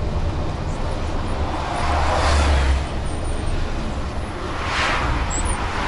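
Bus engine and road rumble heard from inside a moving bus, with rushing noise swelling and fading about two seconds in and again near the end.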